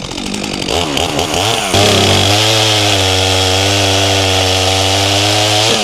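Stihl MS400C two-stroke chainsaw revved up and down a few times, then held at full throttle from about two seconds in, running steady while cutting a log into a firewood round. It is let off near the end.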